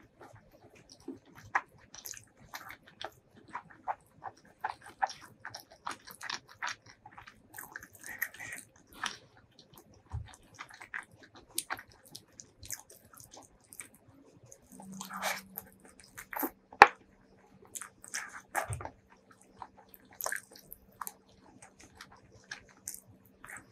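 Close-miked chewing and biting of fried chicken wings: a run of short crisp crunches and wet mouth clicks. A low steady hum comes in about two-thirds of the way through.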